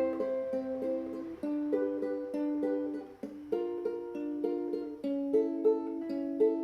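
Acoustic plucked-string instrument strummed in a steady rhythm, playing the song's chords with no singing. The chord changes about every two seconds.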